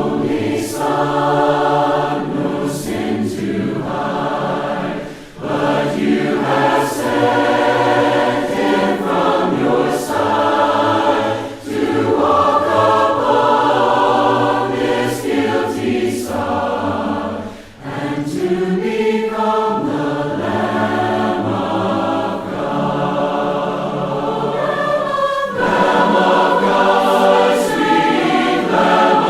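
A choir singing a hymn in sustained sung phrases, with short breaths between lines.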